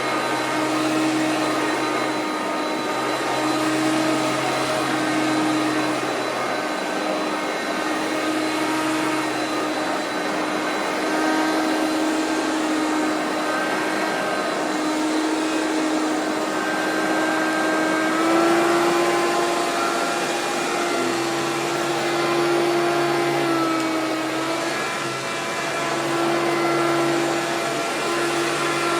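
Hoover PowerMax self-propelled bagged upright vacuum cleaner running steadily, a continuous motor hum with a whine above it. Its pitch shifts slightly a few times, stepping up about two-thirds of the way through.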